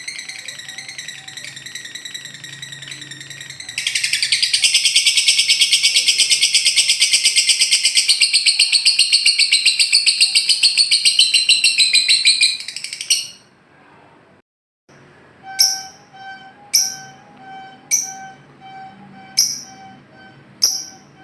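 Recorded lovebird song: a long, loud, very fast chattering trill (the ngekek) running for about nine seconds, then breaking off. After a brief silence come sharp falling chirps about once a second.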